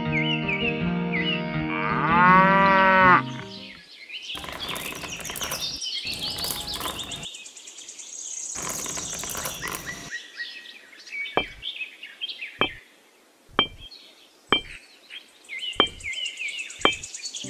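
A cow moos once over background music about two seconds in. It is followed by several seconds of rattling as small coloured pebbles are heaped onto the sand, then a series of single sharp clicks as pebbles and miniature bricks are set down one by one.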